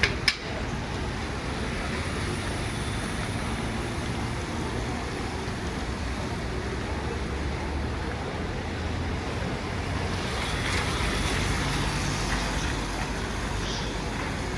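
Steady hiss of rain and wet-street traffic, picked up on a smartphone microphone while walking, swelling a little from about ten seconds in. A sharp click comes right at the start.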